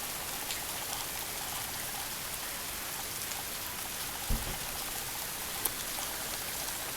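Steady rain falling, an even hiss with scattered drips and ticks. A short low thump about four seconds in.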